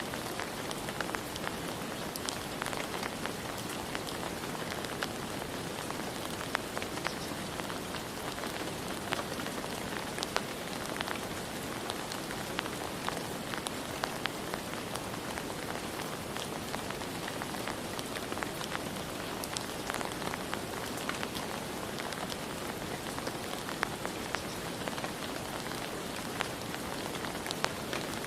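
Steady rain falling on surfaces, with a dense hiss and many distinct drops pattering and ticking throughout.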